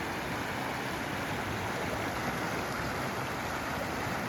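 Small river rapids and a low waterfall rushing steadily.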